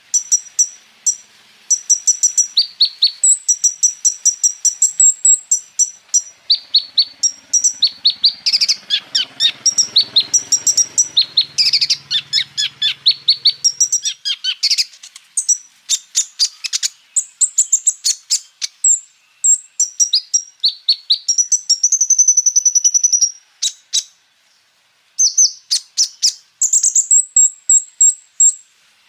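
Kolibri ninja sunbird singing a long, fast, high-pitched song of rapid repeated chirps and trills, packed with rolls and mimicked phrases, with a brief pause a little over three-quarters of the way through.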